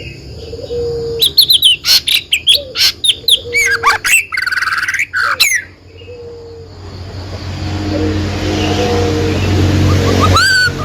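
A songbird chirping loudly in a quick run of sharp, gliding notes for several seconds, then falling silent. In the second half a steady rushing noise swells up, and one more chirp comes near the end.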